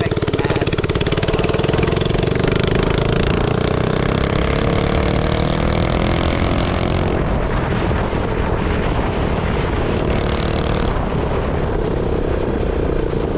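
Minibike engine running hard through a new, very loud exhaust, its pitch climbing gently as it speeds up, then easing off about seven seconds in.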